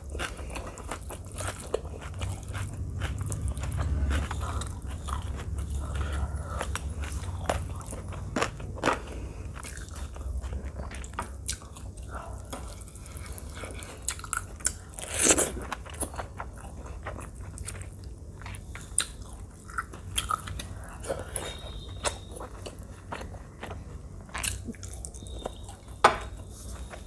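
Close-miked chewing and biting of rice and chicken curry eaten by hand, with wet mouth smacks and many short clicks. A couple of louder clicks stand out, one about halfway through and one near the end.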